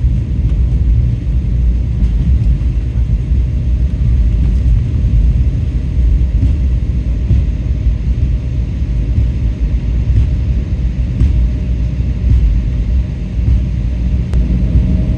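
Steady low rumble inside a jet airliner's cabin as it rolls on the ground after landing, engine and wheel noise with no sharp bumps. A faint steady tone comes in near the end.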